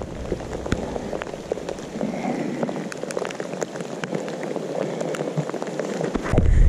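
Rain falling on the lake and boat: a steady hiss of drops with many scattered sharp ticks. Near the end a much louder low rumble sets in.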